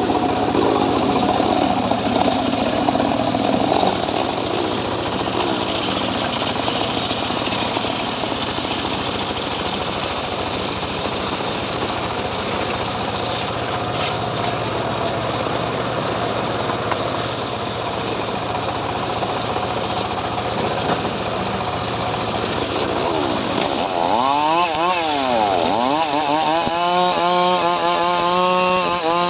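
Homemade engine-driven saw cutting mahogany, a steady motor drone under a dense rasping cut. Near the end the pitch dips and climbs back, then settles into a steady, even whine.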